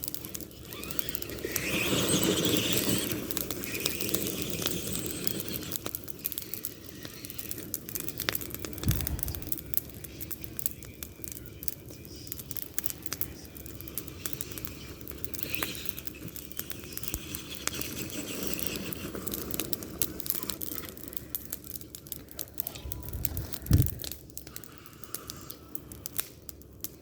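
Tamiya TXT-2 RC monster truck crawling over rough ground: its drivetrain whines in a couple of louder stretches while the tyres crackle and crunch steadily over debris. Two short low thumps come about nine seconds in and near the end.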